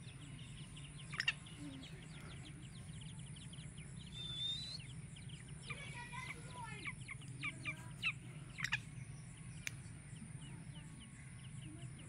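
Birds chirping: a run of short, quick chirps throughout, with one rising call about four seconds in and a few sharp clicks, over a steady low hum.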